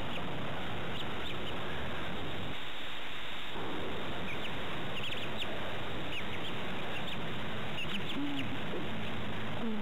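Bird calls: several short, high chirps scattered over a steady hiss, a few clustered in the second half.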